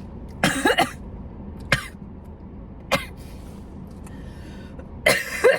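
A woman coughing in four short fits, the first and last the longest, as if she has choked on a drink.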